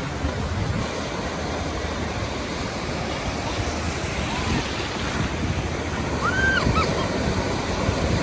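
Ocean surf breaking and washing up a sandy beach, a steady rushing that swells a little louder toward the end, with wind buffeting the microphone. A brief high-pitched call sounds about six seconds in.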